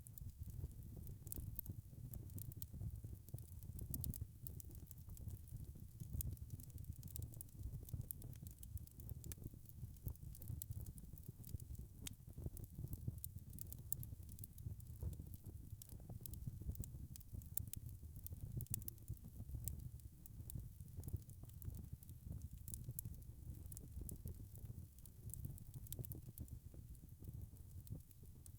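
Wood fire crackling in a fireplace: many small, irregular sharp pops over a low, steady rumble of the flames.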